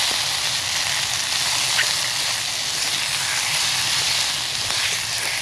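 Chicken pieces sizzling steadily in a hot frying pan as they are sautéed.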